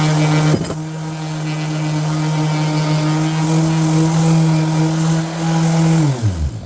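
An electric power tool motor runs at a steady pitch. Near the end it is switched off and spins down, its hum falling in pitch until it stops.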